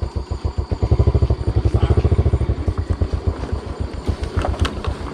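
Motorbike engine running at low revs with a fast, even chugging beat, louder from about one second in and easing again after two and a half seconds.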